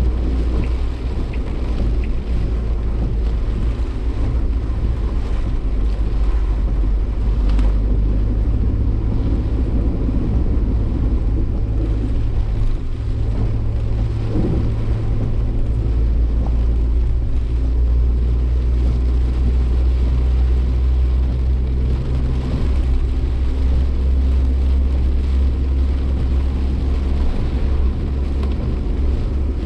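Suzuki Jimny Sierra driving, heard from inside the cabin: a steady low engine and drivetrain drone with road and wind noise. The drone's pitch shifts about 8 seconds in and again around 22 seconds in, as engine speed changes.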